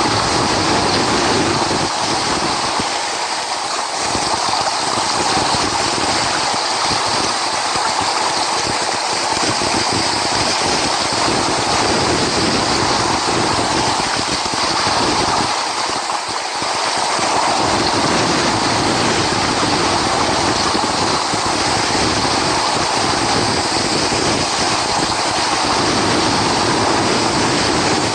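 Ocean surf: a steady rush of breaking waves, swelling and easing slowly.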